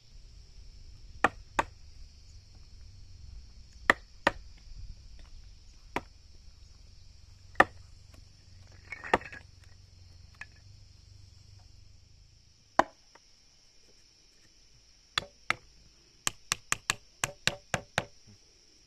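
A hand tool striking wood in sharp single knocks a second or more apart, then a quick run of about eight blows near the end, during work on a wooden frame and gate.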